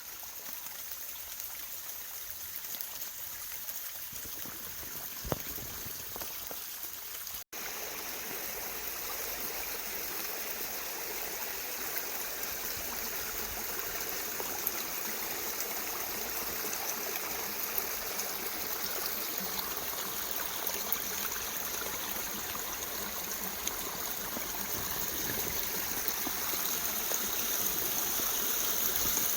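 Small forest stream running with a steady trickling and rushing of water, growing slowly louder toward the end, with a momentary break about seven seconds in.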